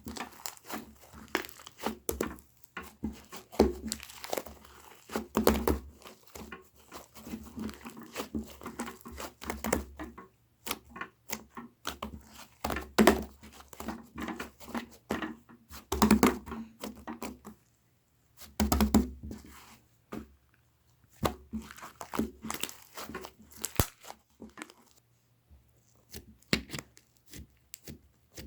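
Slime being handled, stretched and pressed: irregular crackles, pops and tearing sounds, with a louder squelch every few seconds and short pauses between.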